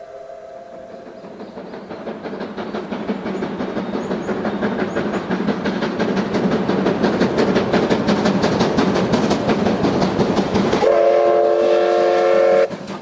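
Train wheels clattering rhythmically over rail joints, growing steadily louder as the train approaches. Near the end comes a two-second blast of a multi-tone train horn that cuts off suddenly.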